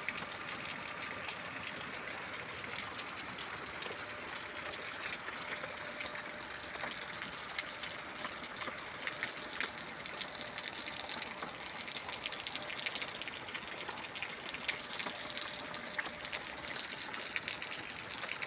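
Steady rain falling: an even hiss of water with many small, sharp hits of single drops.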